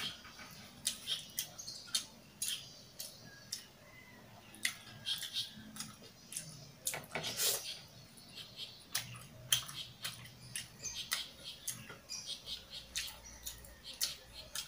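Mouth sounds of a person eating kimchi: wet chewing and lip-smacking, many short irregular smacks and clicks, several a second.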